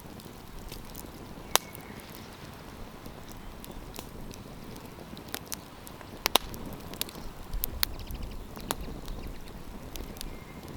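Wood campfire crackling: a steady soft hiss with sharp pops every second or two, the loudest a quick double pop about six seconds in.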